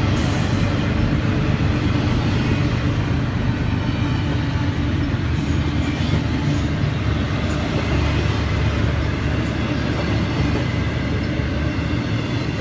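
Freight train rolling past, a steady loud rumble of wheels on rail with occasional faint high clicks.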